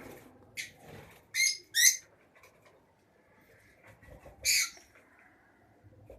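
Lovebirds calling with short, shrill shrieks: two in quick succession about a second and a half in, and another about three seconds later, with a fainter one before them.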